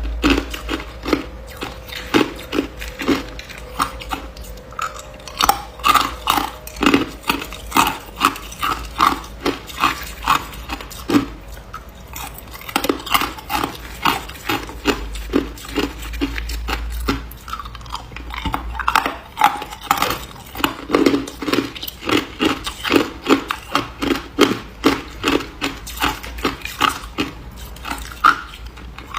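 Hard ice being bitten and chewed, a steady run of sharp crunches, several a second, close to the microphone.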